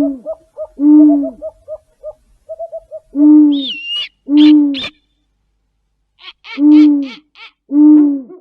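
Six loud, low hooting calls, each about half a second long, coming in three pairs, with faint short pips between the first ones and a brief high whistle-like glide near the middle.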